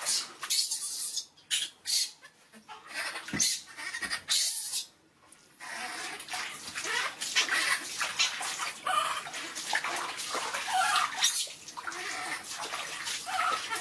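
Water splashing as a monkey is bathed: irregular splashes for the first few seconds, a brief pause, then steadier continuous splashing and sloshing from about halfway.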